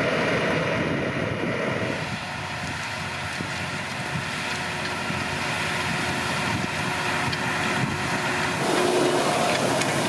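Deutz-Fahr 9340 TTV tractor engine running steadily, with wind on the microphone. The sound dips slightly about two seconds in and swells again near the end.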